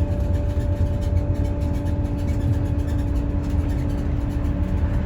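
Scania OmniLink city bus heard from inside, its engine and drivetrain running at a steady speed: a low rumble with a steady whine held at one pitch.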